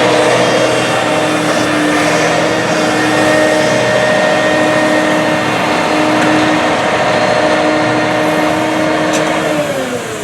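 Heavy diesel harvest machinery running steadily, with a steady whine over the engine. Near the end the pitch falls and the sound eases off.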